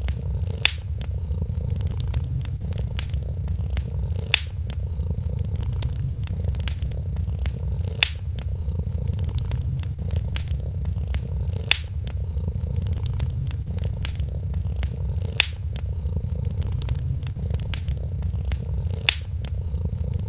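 A cat purring steadily, close up, over a crackling fire. Small crackles run throughout, and a louder sharp pop comes at an even spacing of about every three to four seconds.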